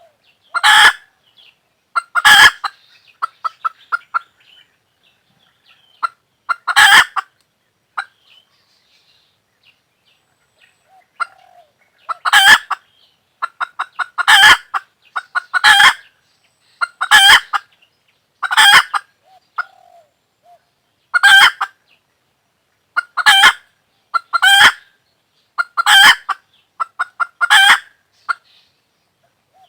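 Chicken calling over and over: each call is a quick run of short clucks ending in a loud drawn-out squawk, like a hen's cackle, about a dozen times, with a few seconds' pause near the middle.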